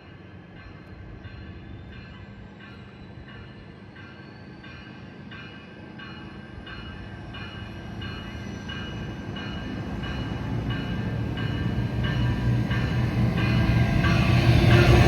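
A train approaching and growing steadily louder, its rumble building, while a rapid, evenly repeated ringing sounds throughout.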